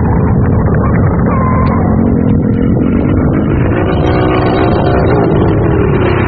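Off-road cage buggy's engine running under throttle: it revs up through the middle, holds high for a moment, then falls away near the end.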